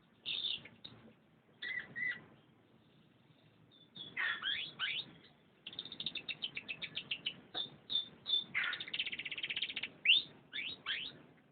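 Domestic canary singing: phrases of quick chirps and sweeping notes broken by short pauses, with a long fast rolling trill about two thirds of the way in.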